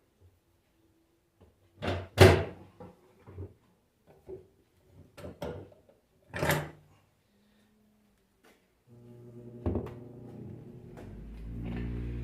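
A handful of clunks and knocks of objects being set down and handled on a workbench, the loudest about two seconds in. About nine seconds in, a steady sustained sound starts and grows, most likely background music.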